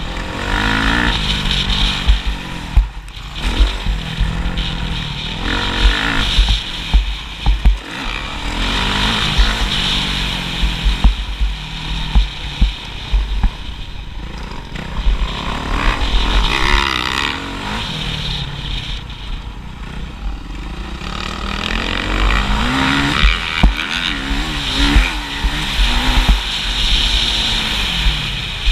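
Motocross bike engine revving up and falling back again and again as it is ridden through the track, over a constant low rumble.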